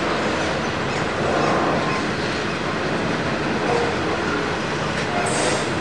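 Coal train's hopper wagons rolling past on a curve: a steady rumble of wheels on rail, with a few brief wheel squeals and a short high screech about five seconds in.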